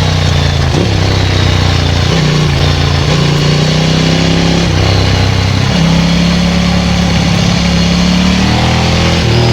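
Ducati 900SL's air-cooled V-twin running loud through a Termignoni full exhaust while riding. The revs rise and fall several times.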